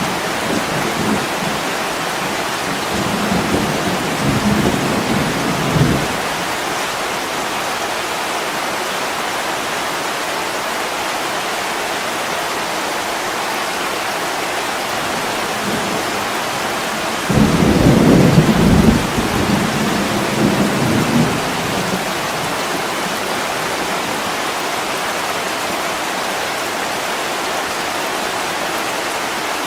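Heavy rain falling steadily on a window, with rolling thunder. A low rumble dies away about six seconds in, and a louder clap breaks in suddenly a little past halfway and rumbles off over about five seconds.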